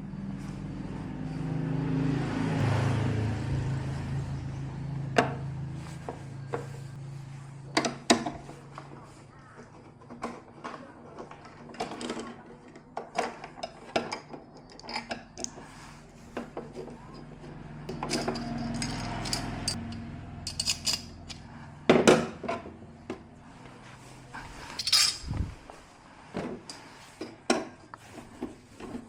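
Irregular metallic clinks, clicks and knocks, some with a short bright ring, like small metal parts and tools being handled and set down, with a low rumble that swells twice.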